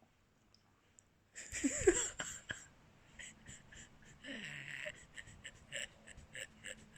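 Wet mouth sounds of eating ice cream: a loud slurp about a second and a half in, then a run of short smacks and licks.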